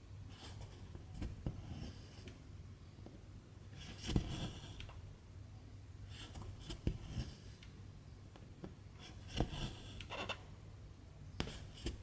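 Cross-stitch needle piercing the fabric and the thread being drawn through, making short rasping swishes with small ticks, about every two to three seconds.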